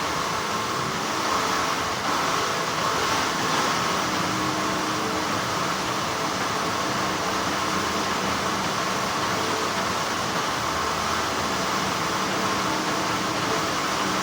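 Steady, continuous hum of textile factory machinery: an even mechanical drone with a few steady tones running through it.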